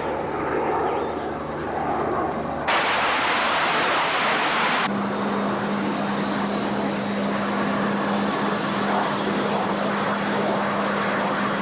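Jet aircraft noise from an A-4 Skyhawk passing low: a steady, loud rush that jumps abruptly louder and brighter for about two seconds, a little over two and a half seconds in, then settles back with a steady low hum under it.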